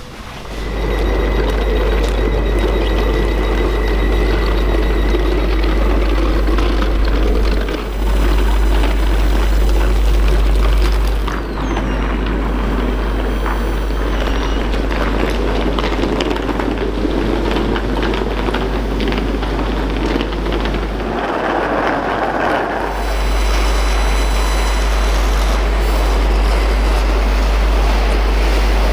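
Steady low rumble and hum of electric commuter trains. A faint high whine runs for the first several seconds, and a brief louder hissing patch comes about three quarters of the way through.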